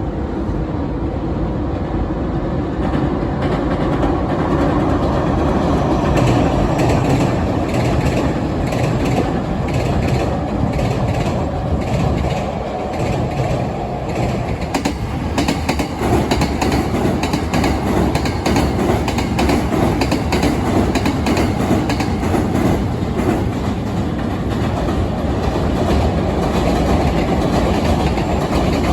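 Hankyu electric trains crossing a railway bridge over the Yodo River: a steady rumble with rapid wheel clatter over the rail joints, starting a few seconds in and getting busier about halfway through.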